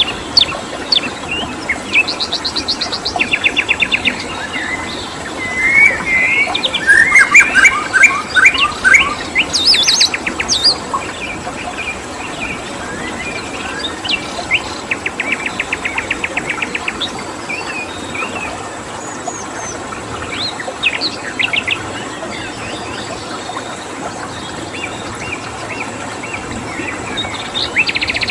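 Several songbirds chirping and calling, with rapid trills, over a steady rushing background of a stream. A dense, loud flurry of calls comes about six to eleven seconds in.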